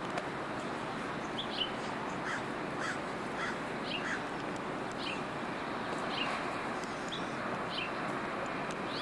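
Birds calling: a run of about four short calls roughly half a second apart around the middle, with scattered higher chirps, over a steady background hiss.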